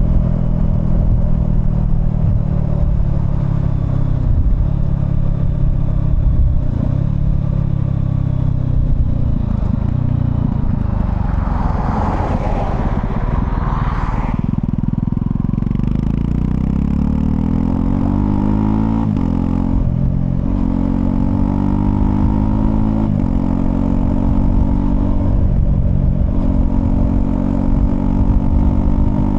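Honda CL250's single-cylinder engine running under way. About halfway through, a brief whooshing rush passes over it; after that the engine pitch climbs and drops several times as it accelerates through the gears.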